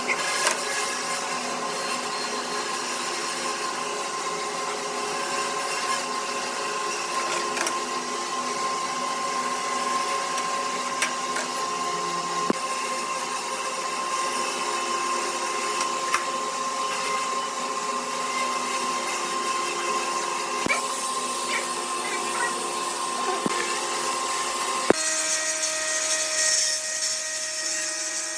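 An electric power tool's motor running steadily with a high whine, with a few sharp clicks along the way. About twenty-five seconds in it cuts abruptly to a different steady motor whine.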